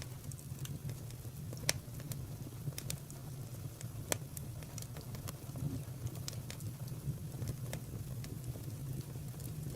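Wood fire crackling: irregular sharp pops and snaps over a low steady rumble, with a couple of louder pops about two and four seconds in.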